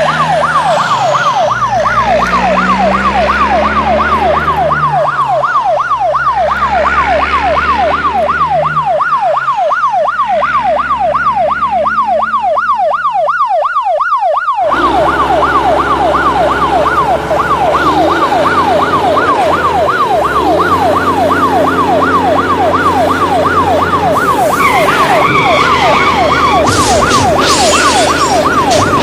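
Electronic ambulance siren on a rapid yelp, the pitch sweeping quickly up and down without a break. About halfway through it jumps suddenly, as at an edit, and near the end some rattling noise joins in.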